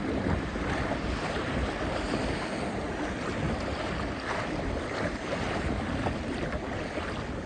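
Rushing whitewater and splashing around a kayak running a river rapid, a dense, steady wash of water noise.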